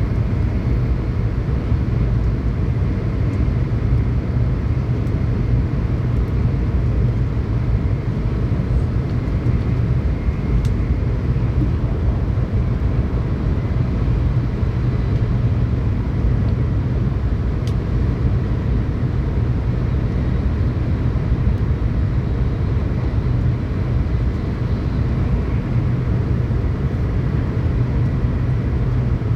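Steady low rumble of a Tokaido Shinkansen train running at speed, heard from inside the passenger cabin.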